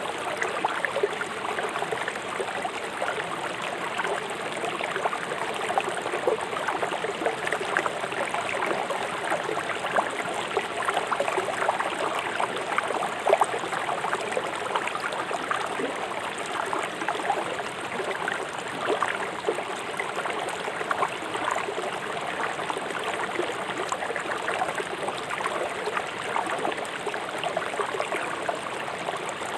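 Fast-flowing river water rushing and splashing over rocks: a steady, dense burble with many small splashes.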